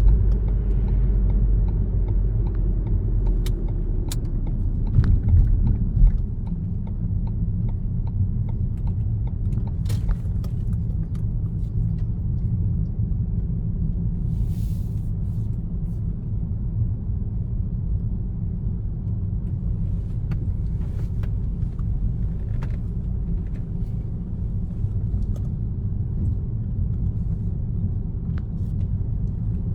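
Car driving along a road: a steady low rumble of tyres and engine. It is louder and bumpier around five to six seconds in, then settles, with a few faint clicks here and there.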